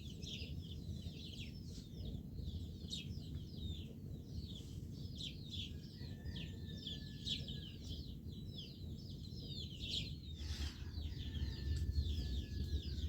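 Many small birds chirping together: a dense, unbroken stream of short, high, falling chirps. Beneath it runs a steady low rumbling noise that grows louder near the end.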